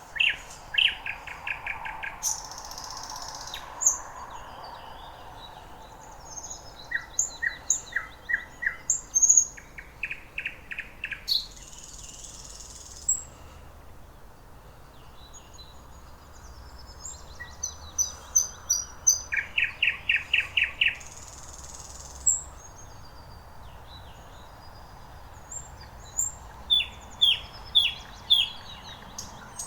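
Thrush nightingale singing: loud phrases of fast repeated notes, harsh rasping bursts and short whistles, separated by pauses of a second or two.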